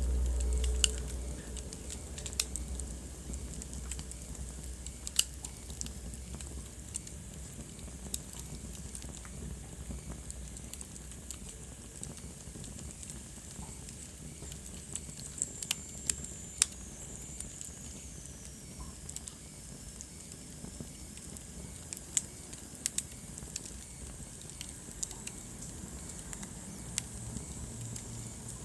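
Wood fire in a fireplace crackling, with irregular sharp pops over a soft steady hiss. A low rumble fades over the first few seconds, and a faint high whistle slides down in pitch about halfway through.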